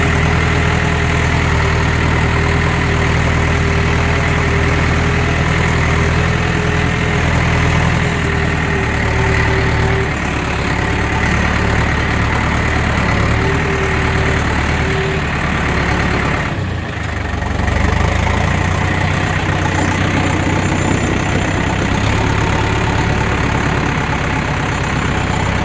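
Tractor engine running steadily at low speed as the tractor moves slowly over a rough trail. The engine sound drops briefly about 17 seconds in and then picks up again.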